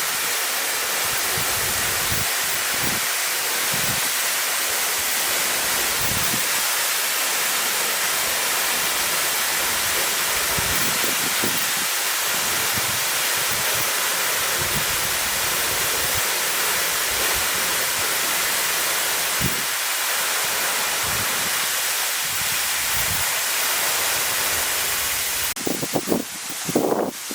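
Steady rush of a tall vertical waterfall, about 40 m high, pouring into its plunge pool. Near the end the rush drops away and uneven low buffeting thumps come in.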